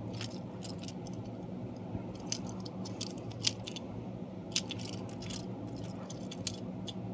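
Light clicks and small rattles of push-along toy train engines being handled, over a steady low hum, with two sharper clicks about three and a half and four and a half seconds in.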